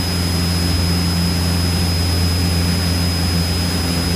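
Cessna 172's piston engine and propeller droning steadily in cruise, heard inside the cabin, with a thin steady high tone over the engine hum.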